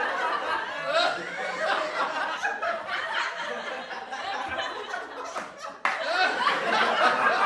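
Several people laughing together in overlapping voices. About six seconds in, it cuts abruptly to another, louder burst of group laughter.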